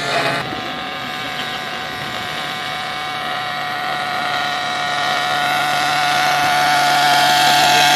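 XTM Mammoth MMT RC monster truck's engine settling into a steady idle just after a brief rev, then idling evenly, getting slightly louder toward the end.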